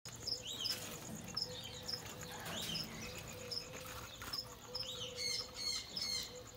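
Birds chirping: a short high chirp repeats about twice a second, with louder rising-and-falling calls now and then and a quick run of calls near the end.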